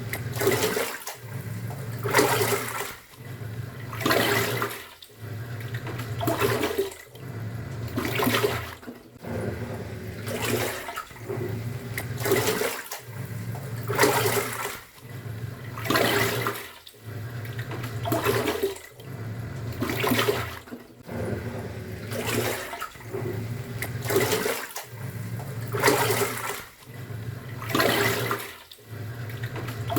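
Top-loading pulsator washing machine in its wash cycle: the motor hums, stops briefly and starts again about every two seconds as the pulsator changes direction, and water sloshes and swishes in the drum with each stroke.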